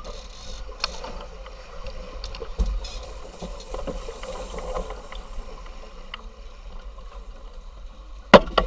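Sounds aboard a racing yacht: a steady rush of wind and water with scattered clicks and knocks of deck gear, and one sharp, loud knock near the end.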